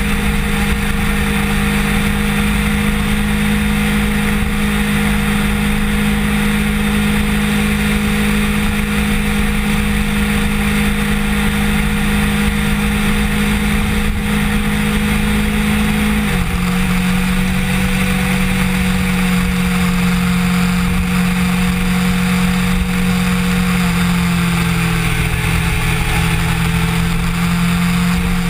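Kawasaki Ninja sport bike's engine running at steady cruising revs over a steady rushing noise. The engine note drops a step in pitch about sixteen seconds in, and dips slightly again near the end.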